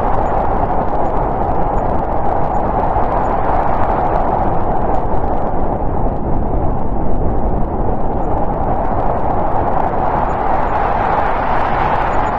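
Snowstorm wind blowing steadily, a continuous rushing howl that eases a little midway and builds again near the end.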